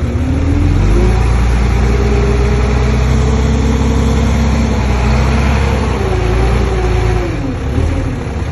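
Komatsu D20P crawler bulldozer's diesel engine revving up about a second in and holding high revs, then easing back near the end.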